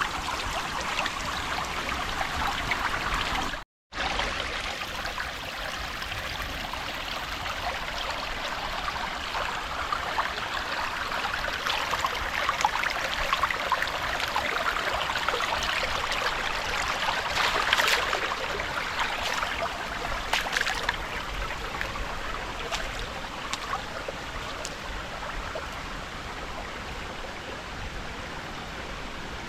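Shallow creek water running and babbling over rocks, a steady rush with occasional sharp splashes, busiest about eighteen seconds in. The sound cuts out completely for a moment about four seconds in.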